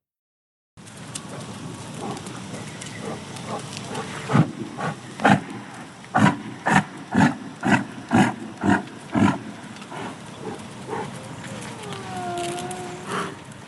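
A hoofed animal calling: a run of about nine short, loud calls, roughly two a second, then a longer call that glides in pitch near the end.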